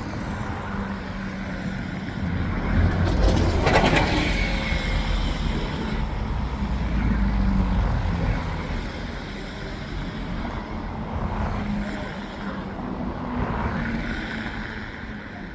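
Vehicle noise: a steady low rumble with a faint hum under it, growing louder about three seconds in and easing off after about eight seconds, with a brief sharp noise about four seconds in.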